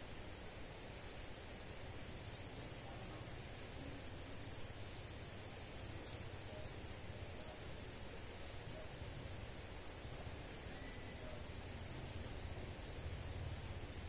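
Small bird giving brief, very high-pitched chirps, each sweeping downward, scattered irregularly about once a second over a steady low outdoor rumble.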